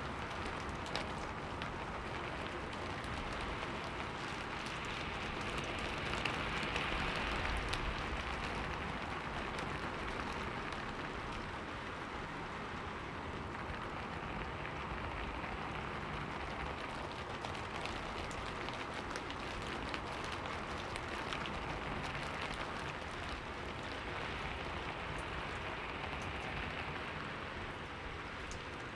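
Steady rain falling on a window glass, with many small drop ticks over an even hiss; it grows a little louder about six seconds in, then settles back.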